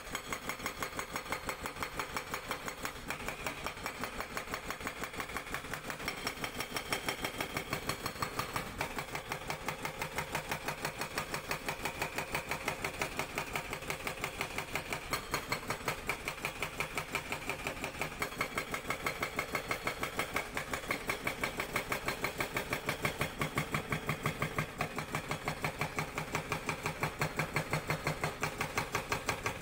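Sangdo SD220 hydraulic breaker on a Cat 320D excavator hammering rock in rapid, evenly spaced blows, with the excavator's diesel engine running under load beneath it.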